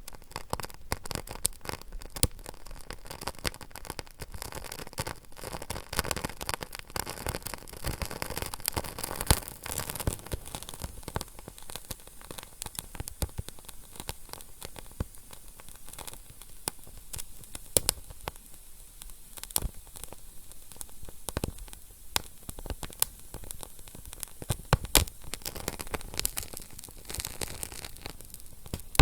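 Wood fire crackling steadily, with irregular sharp pops and snaps over a soft hiss, busier in the first half.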